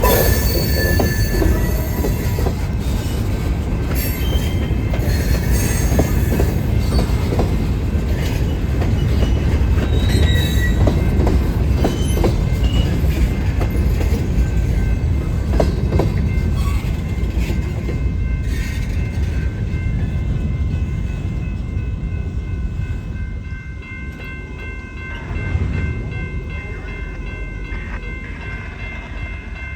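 Train rolling along the rails: a heavy low rumble with scattered clicks and knocks. The rumble eases in the second half, and a steady high wheel squeal comes in.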